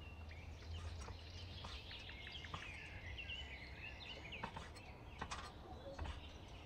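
Birds chirping over a steady low hum, with a few sharp clicks in the second half.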